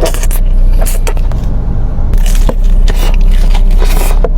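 Close-miked chewing of fast food: irregular crunches and wet smacks of bites being chewed.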